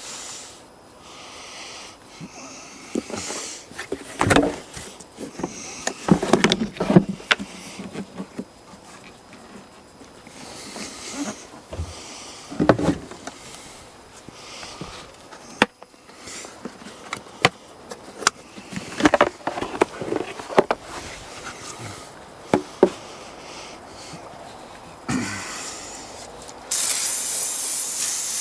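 Scattered knocks, clicks and rubbing from handling and wiping down metal, then an aerosol can of WD-40 spraying in a steady hiss for the last couple of seconds, after a shorter burst just before.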